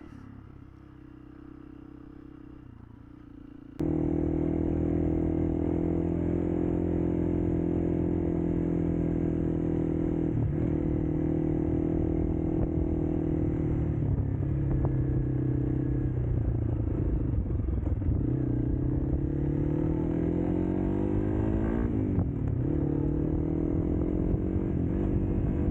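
Honda CRF300L's single-cylinder engine running on the move. It is faint at first, then suddenly much louder about four seconds in, its pitch dipping and then climbing and falling again with the throttle near the end.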